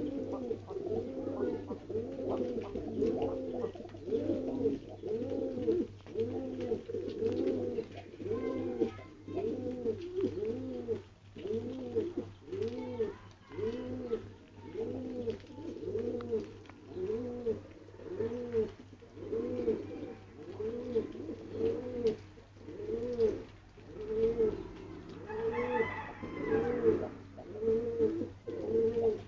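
Domestic pigeons cooing over and over, each coo rising and falling in pitch, about one a second, over a steady low hum. A brief higher-pitched sound comes in near the end.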